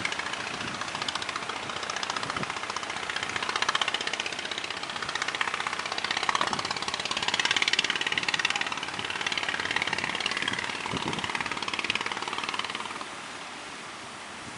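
Fishing boat's engine running with a fast, even pulse, growing louder and softer as it passes, then fading near the end.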